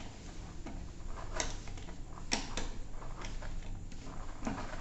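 A few scattered plastic clicks and handling knocks as a USB flash drive is plugged into a boAt party speaker's USB port and the speaker is handled.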